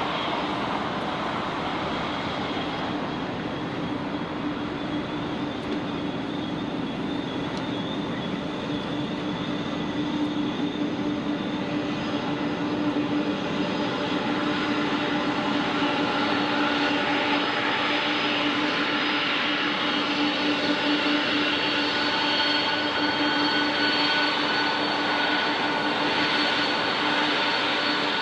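Four-engine jet engines of a Boeing 747-400F, a steady whine over a rushing rumble that grows a little louder from about ten seconds in.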